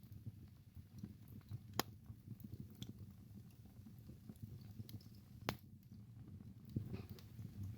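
Wood fire burning in a fireplace: a low, fluttering rumble of flames with scattered small crackles, and two sharp pops, about two seconds in and again about five and a half seconds in.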